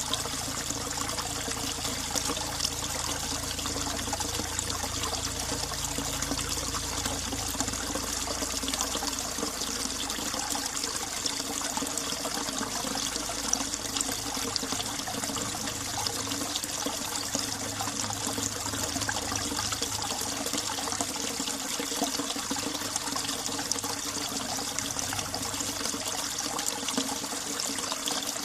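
Winter mountain stream running over rocks beside ice, a steady trickling and splashing rush of water with many small bubbling splashes.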